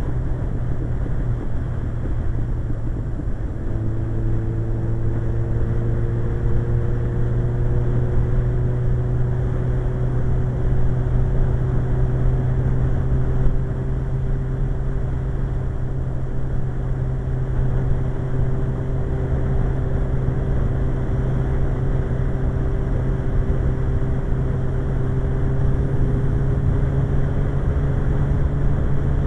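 Suzuki GSX-R1100 motorcycle's inline-four engine running at a steady road speed, under heavy wind rush. About four seconds in the engine note grows stronger, then creeps slowly upward in pitch.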